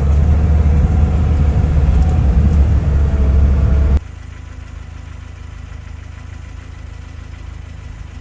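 Lada Niva engine running loud and steady with a deep rumble, then dropping suddenly to a much quieter steady idle about four seconds in.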